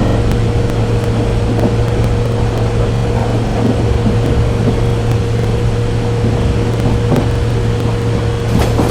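A train running: a loud, steady rumble with a constant droning hum, and a few clicks near the end.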